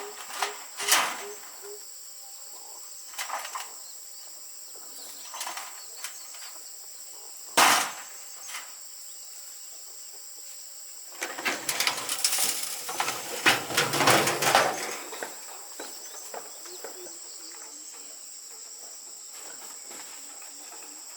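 Scattered knocks of hard objects, with a sharp one about a third of the way in and a longer spell of clattering and scraping past the middle, over a steady high hiss.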